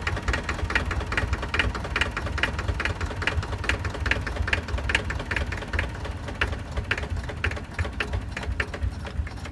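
A motor running steadily with a rapid mechanical clatter: a low rumble under quick, regular ticks.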